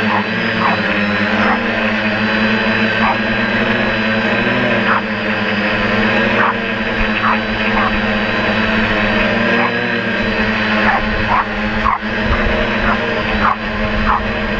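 DJI F450 quadcopter's electric motors and propellers humming steadily, with short, sharp yaps from a small dog now and then.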